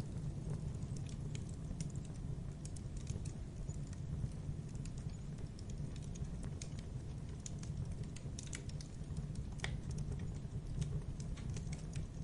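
Wood fire crackling in a fireplace: a steady low rumble of flames with irregular sharp snaps and pops throughout.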